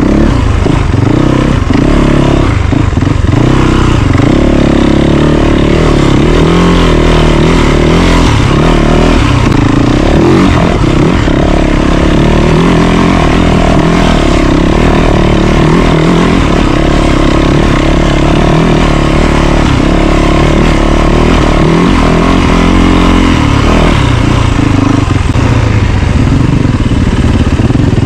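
Yamaha YZ450FX dirt bike's single-cylinder four-stroke engine running hard off-road, its pitch rising and falling as the throttle is opened and closed.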